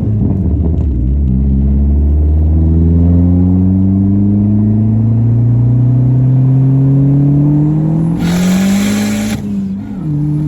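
Big-turbo Dodge SRT-4's turbocharged four-cylinder heard from inside the car under hard acceleration. Its note drops at a gear change about a second in, then climbs steadily through the gear. A loud hiss comes in near the end, and the note drops again at the next shift.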